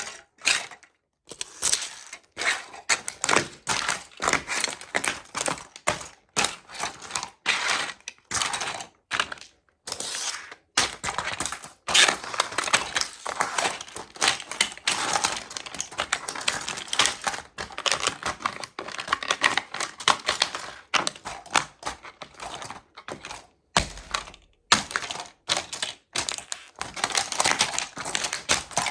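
Toy model trucks being crushed under sneakers: a dense, irregular run of cracking, snapping and crunching as the toys break apart, with a few short pauses.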